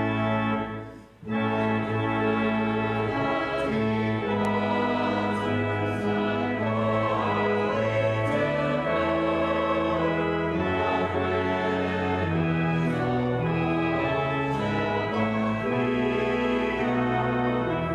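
Church organ playing a hymn in long held chords that change step by step, with voices singing along. There is a brief break between phrases about a second in.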